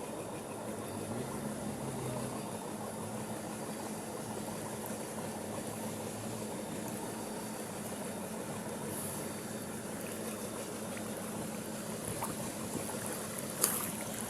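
Quiet swimming with the head above water: a steady wash of water and outdoor noise over a faint low hum, with one sharp click near the end.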